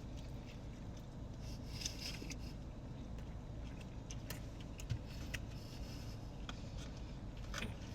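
Low steady hum of a car interior with faint, scattered clicks and rustles of food and wrapper handling.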